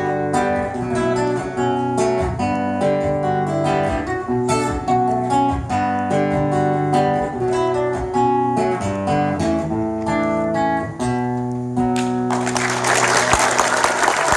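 Instrumental outro of a song: acoustic guitar picked and strummed over sustained bass notes. About twelve seconds in, a loud hiss-like wash of noise comes in over the guitar.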